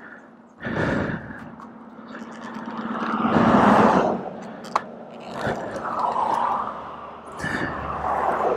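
Plastic tail fairing being handled and pushed against a motorcycle's tail section, with irregular scraping and a sharp click a little before halfway through. A passing vehicle swells and fades in the first half.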